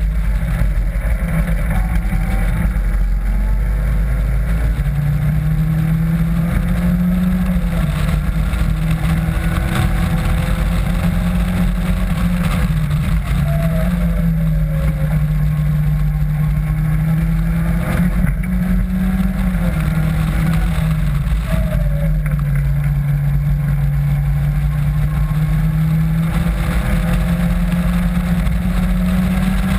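Caterham Classic sports car engine under hard track driving, heard from the open cockpit over wind rush. Its pitch repeatedly climbs under acceleration and drops back at gear changes and lifts.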